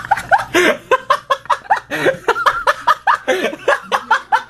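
People laughing hard and helplessly, a quick unbroken run of short, high laugh pulses with no words.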